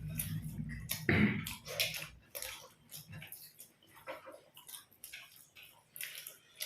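Chewing and wet mouth clicks of people eating lachha paratha, coming in irregular short bursts. A low hum underneath stops about three seconds in.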